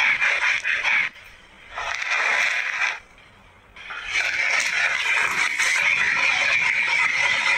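Breaded bread squares sizzling in shallow oil in a frying pan: a steady crackling hiss from about four seconds in. Before that come short bursts of crackling noise, broken by two brief gaps.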